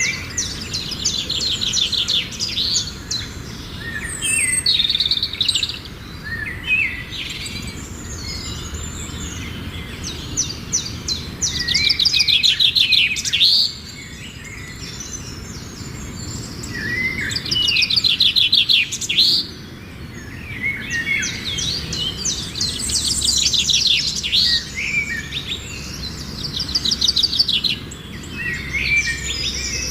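Pet lovebirds chirping and chattering in bursts of rapid, high, trilled chirps a few seconds long, again and again.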